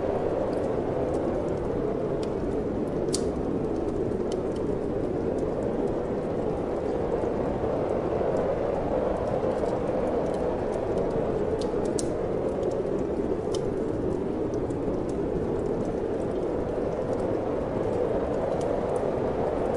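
Steady wind blowing with a wood fire crackling in a fireplace: a constant rushing, with scattered sharp pops and snaps from the burning wood a few seconds apart.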